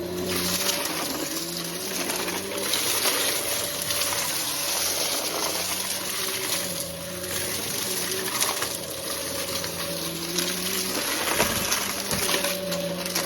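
Vacuum cleaner running during a mess pick-up test: a steady rush of air with a high motor whine, its motor tone coming and going every few seconds.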